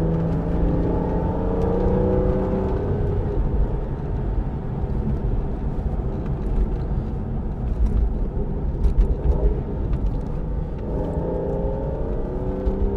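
Aston Martin DB9's 5.9-litre V12 pulling the car along under way, with road and tyre noise. The engine note rises a little in the first few seconds and again near the end, and there are a few light knocks about eight to nine seconds in.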